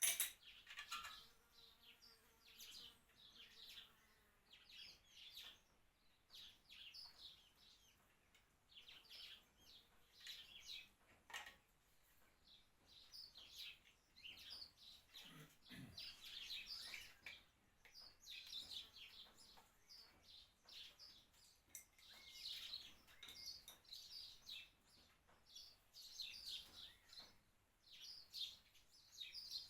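Faint small birds chirping and twittering in quick, repeated short calls, with a sharp click right at the start.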